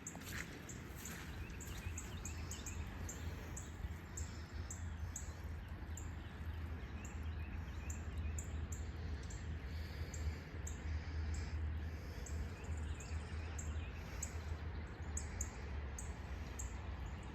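Small birds chirping, short high calls repeating every second or so, over a low steady rumble.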